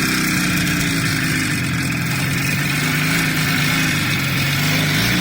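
Car engine running steadily, its pitch wavering slightly up and down, over a steady rushing noise.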